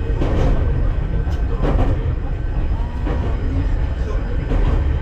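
Enoden electric train running along its rails, heard from on board: a steady low rumble with a few scattered clacks as the wheels pass over rail joints.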